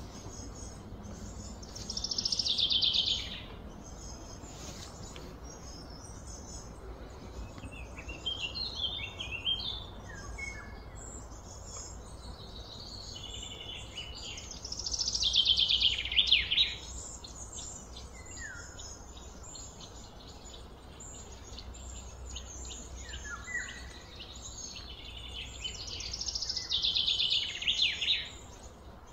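Birds singing: three times, a loud phrase of rapid notes sliding down in pitch, with shorter chirps in between, over a steady low background noise.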